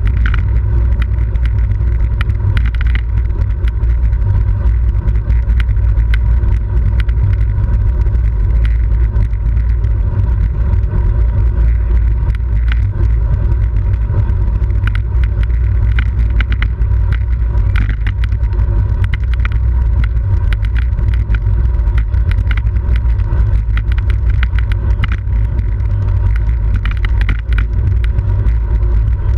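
Steady low rumble of wind buffeting the microphone of a camera riding on a racing bicycle at speed, with road noise and many small scattered clicks.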